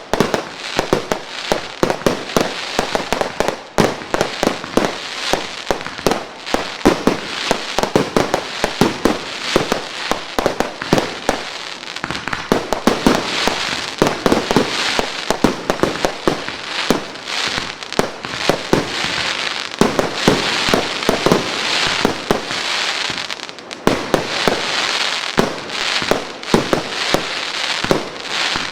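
Several Top Gun multi-shot firework cakes firing together: a rapid, continuous barrage of shots and bursts, several a second, mixed with hissing and crackling from the crackle and flying-fish effects.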